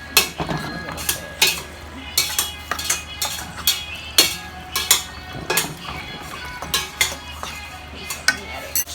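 Pasta and broccoli being stirred in a pot: a utensil knocking and clinking against the pot in irregular strokes, about one or two a second.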